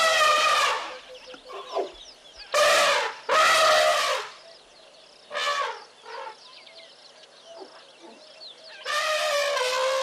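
Loud animal calls: drawn-out pitched cries about a second long, heard about five times with pauses between, the last one starting near the end. Faint short chirps are heard in the quieter stretch in the middle.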